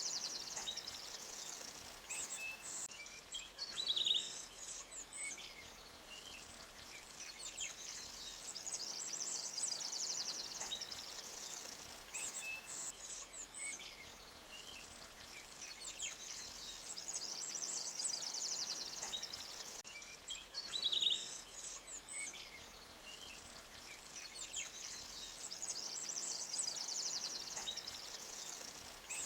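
Forest bird chorus: scattered short chirps over a high, rapid trill that swells and fades about every eight to nine seconds, with a sharper, louder call twice.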